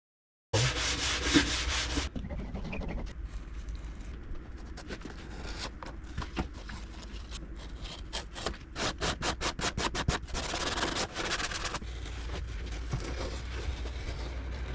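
Rubbing and sanding on wood by hand, in uneven scraping passes, with a quick run of short strokes, several a second, around the middle. A low steady hum runs underneath. The sound starts abruptly about half a second in.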